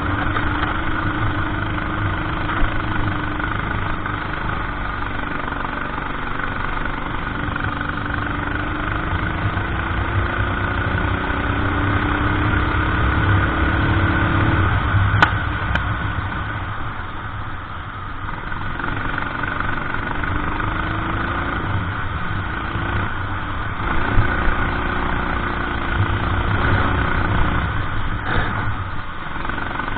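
A racing kart's engine running under load. Its pitch climbs slowly down a straight and drops sharply about halfway through as the kart slows for a corner, then climbs again. A single sharp click comes just after the drop.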